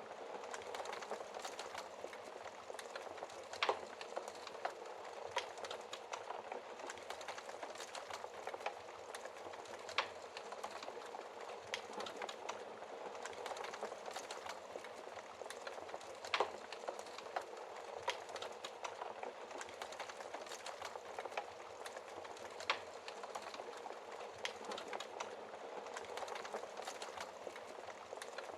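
Wood fire in a fireplace crackling steadily: a dense run of small crackles over a soft hiss, with a louder pop of burning wood roughly every six seconds.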